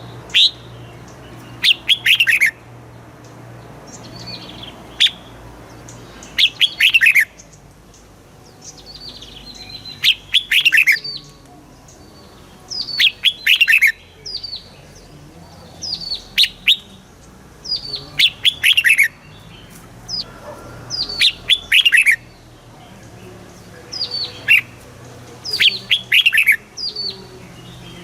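Red-whiskered bulbul singing: short phrases of quick, downward-sliding whistled notes, repeated every second or two with brief gaps between them.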